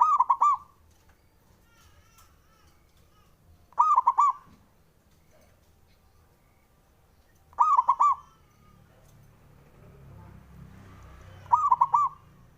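Male zebra dove (perkutut) singing: four short cooing phrases, each a quick run of three or four notes, about every four seconds.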